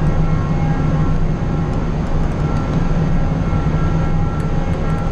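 Loud, steady drone of ship's machinery in a very large crude carrier's steering gear room, a deep hum with a few constant whining tones above it.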